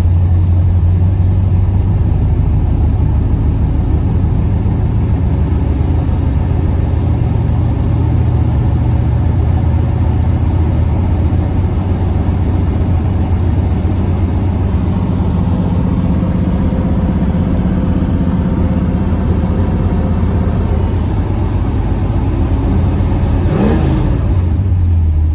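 1967 Pontiac GTO's 400 cubic-inch V8 idling steadily just after a cold start.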